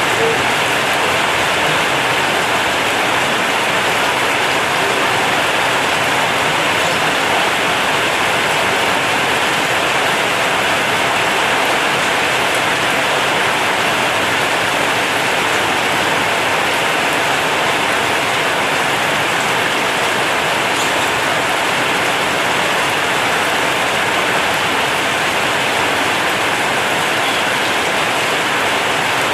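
Heavy rain drumming steadily on a corrugated zinc (tin) roof, a dense, even hiss that holds steady throughout.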